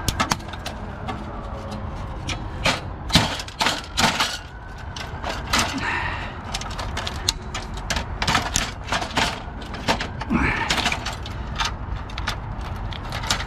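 Irregular clicks, knocks and rattles of plastic and sheet-metal printer parts being handled and pried apart while a large printer is dismantled, over a steady low rumble.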